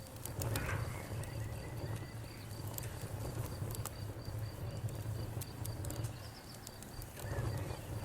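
Campfire crackling, with scattered sharp pops over a low steady rumble, while an insect chirps in a high, evenly pulsed tone.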